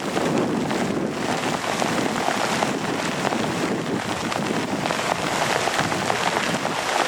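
Heavy rain falling steadily: a dense, even hiss of drops hitting nearby surfaces.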